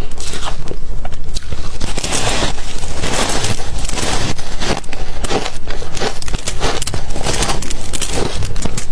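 Ice being bitten and chewed close to the microphone: a steady, dense run of loud crunches and cracks as the ice breaks between the teeth.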